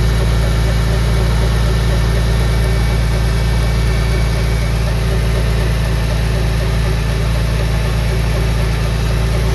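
Engine idling steadily with a fast, regular ticking riding on it. The cause of the tick is unknown to the owner.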